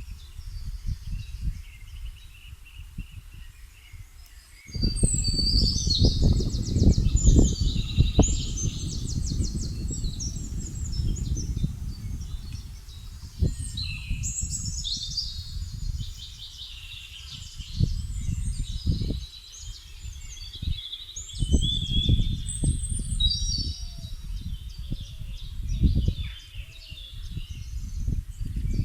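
Small birds singing and chirping in quick, trilling phrases throughout, over a low rumble that comes and goes in gusts, loudest from about five seconds in.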